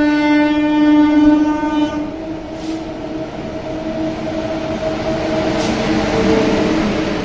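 An Indian electric train's horn blowing one steady note that drops away about two seconds in. The rumble of trains rolling through the station then builds, with steady faint tones and two sharp clanks.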